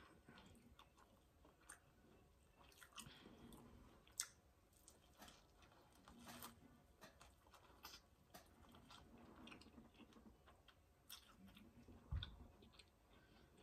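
Faint close-up eating sounds: a person biting into and chewing corn on the cob, with small wet clicks and soft crunches scattered throughout.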